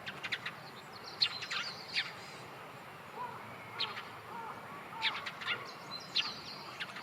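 Small birds calling and chirping, with quick clusters of short, sharp high notes throughout and a few lower, curving whistled notes in the middle.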